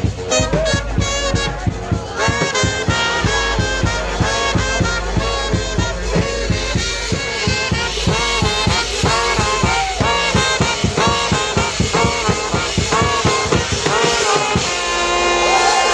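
Live brass band with drums playing an up-tempo swing-style tune, ending on a long held chord near the end.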